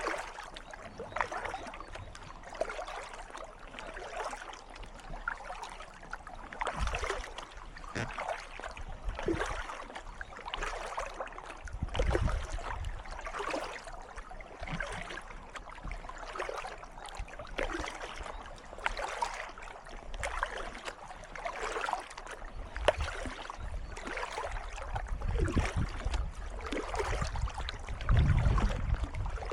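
Kayak paddle strokes dipping and splashing in calm water, about one a second, over a steady trickle of water along the hull. A low rumble comes in about twelve seconds in and again, loudest, near the end.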